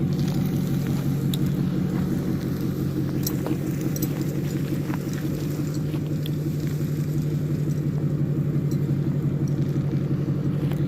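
Ford F-350 pickup's engine running steadily at low speed as the truck moves off, with a few light clicks and rattles over it.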